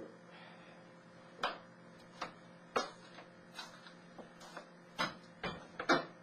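Irregular light knocks and clicks, about ten spread unevenly, over a steady low hum.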